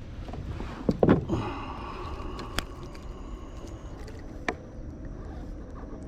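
Handling and water noise from a Wilderness Systems Tarpon 105 sit-on-top kayak, with a thump about a second in and a few sharp clicks after it.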